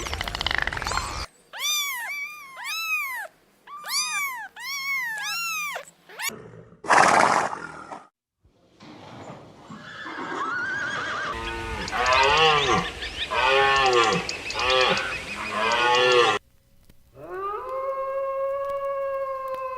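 A quick succession of different animal calls: a run of about six rising-and-falling cries, a short loud rough burst, a busier stretch of overlapping calls, then after a brief pause one long steady held call.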